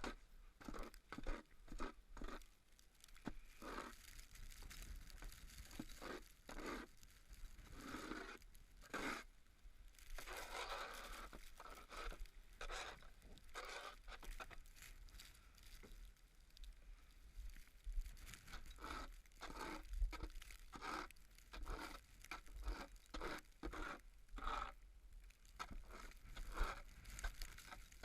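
Footsteps crunching through snow at about two steps a second, with a longer scraping crunch in the middle.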